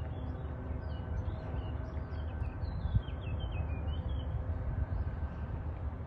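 A small songbird singing a run of quick, high chirps and short trills that stops about four and a half seconds in, over a steady low outdoor rumble.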